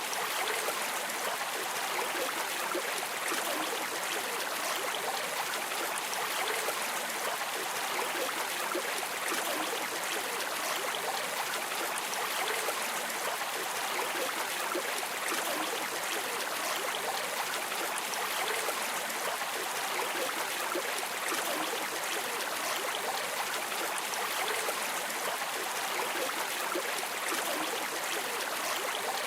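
Flowing river water: a steady, even rush and babble of a stream.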